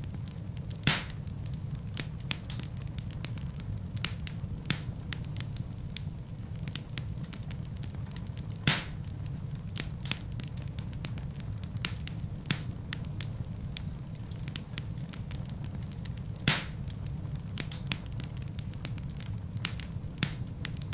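Fireplace fire crackling, with a steady low rumble of flames and many small scattered clicks. Three louder sharp pops come about one second in, near the middle and about three-quarters through.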